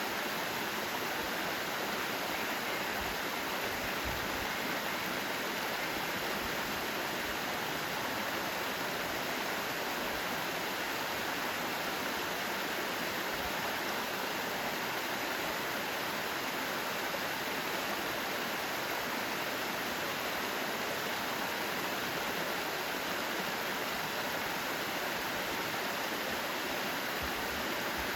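Mountain valley stream with water running steadily in an even, unbroken rush.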